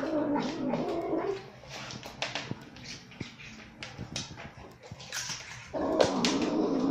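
A dog vocalizing in two long, wavering pitched calls, one at the start and another about six seconds in. Sharp clicks come between them as it snaps at a piece of cucumber.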